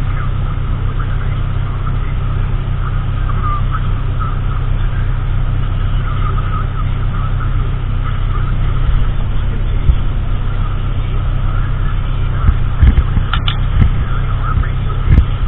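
Car engine idling with a steady low hum, heard from inside the cabin, with a few short clicks near the end.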